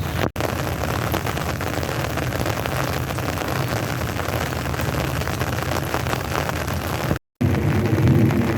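Steady heavy rain falling, an even hiss with a low rumble underneath. The sound cuts out for a moment twice, once just after the start and once near the end.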